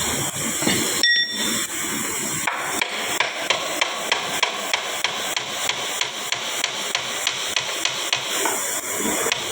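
Hammer blows on gearbox parts during an overhaul, striking steadily about three times a second, starting about two and a half seconds in.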